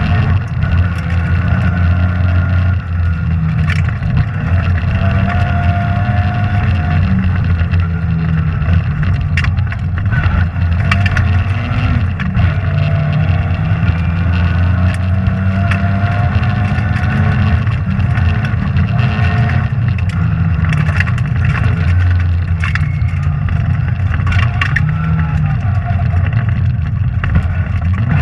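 Rally car engine heard from inside the cabin, running hard with its pitch rising and falling as the car accelerates and shifts along the stage, with scattered sharp knocks and clatter from the car's body and underside.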